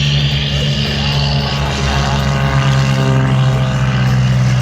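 Propeller airplane engines droning steadily.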